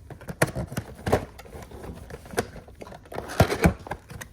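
A cardboard trading-card box being worked open by hand: a series of sharp knocks and clicks with cardboard scraping and crinkling in between, the loudest pair of knocks about three and a half seconds in.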